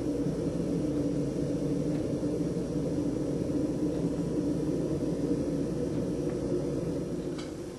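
Storm wind blowing across the microphone: a steady low rumble that eases off about seven seconds in.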